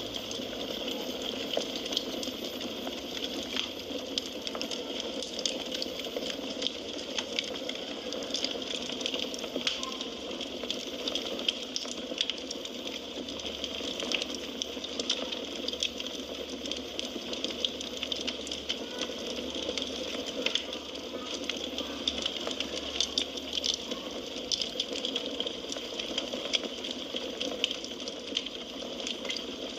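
Burning firewood in a fireplace crackling: frequent small sharp pops and snaps over a steady hiss of flames.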